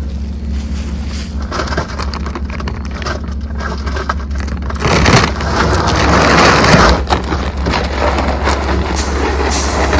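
Shelled deer corn being handled and poured out of bags onto the ground: crunching and rattling, with a louder rush of grain about five seconds in, over a steady low hum.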